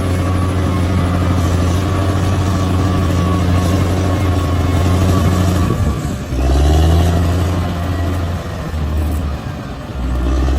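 Large bulldozer's diesel engine running under load. It dips briefly about six seconds in, then comes back with a short rise in pitch.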